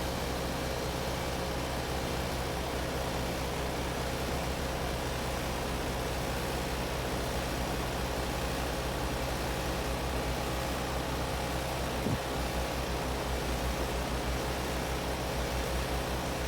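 Gibson 3-ton heat pump outdoor unit running in heating mode on a cold day: a steady hum under even fan noise, with one light tap about twelve seconds in.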